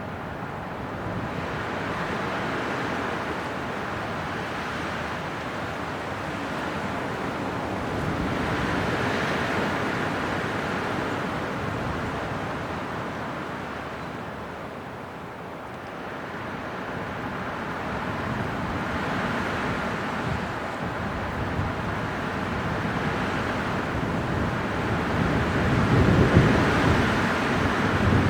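Winter wind blowing in gusts that swell and ease every several seconds, loudest near the end with a low rumble.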